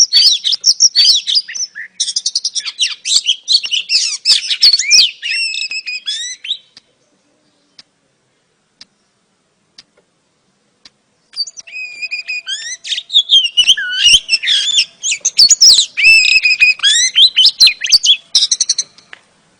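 Female oriental magpie-robin singing a rapid run of varied high chirps and whistles, in two bursts with a pause of about four seconds between them.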